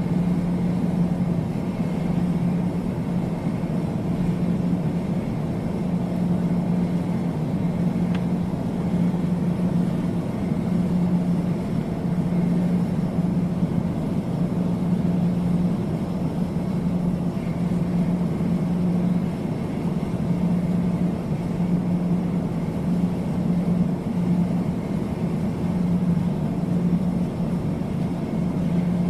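Steady drone of an aircraft, a continuous rushing noise under a low hum that swells and fades slightly every second or two.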